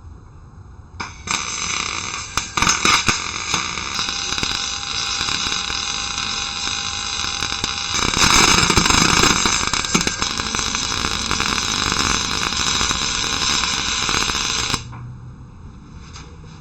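Electric welding arc laying a bead: a steady buzz with crackling, starting about a second in, louder around the middle, and cutting off suddenly near the end.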